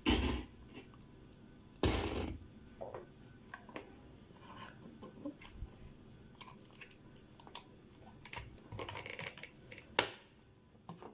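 Handling noise: a scatter of small clicks, rustles and scrapes, with three louder knocks, one at the start, one about two seconds in and one near the end.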